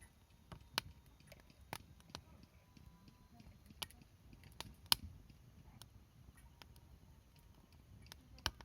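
Wood campfire crackling: sharp pops at irregular intervals, the loudest about five seconds in, over a soft low rumble.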